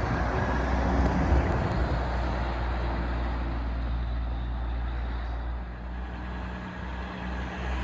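Street traffic with a truck's diesel engine running as it goes by: a steady low rumble over road noise.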